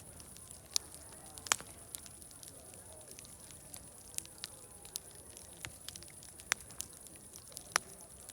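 Wood fire crackling, with sharp irregular pops about every second, the loudest about one and a half seconds in.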